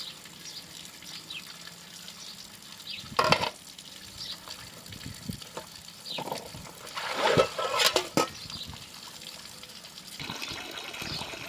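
Water trickling and splashing, with a louder knock about three seconds in and a cluster of clattering knocks around seven to eight seconds.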